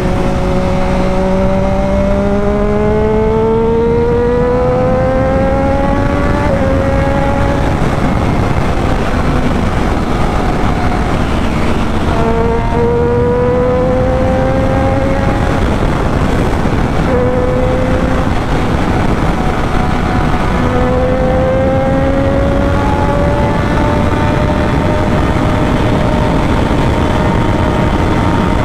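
Triumph Daytona 675R's inline three-cylinder engine accelerating, its pitch climbing in long sweeps broken by gear changes, over heavy wind rush.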